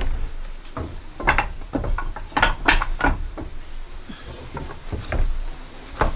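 Irregular wooden knocks and clatter, a dozen or so sharp strikes at uneven spacing, most of them in the first half.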